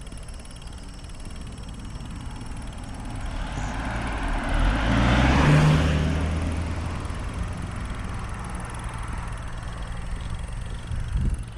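A motor vehicle driving past, growing louder to a peak about halfway through and then fading away.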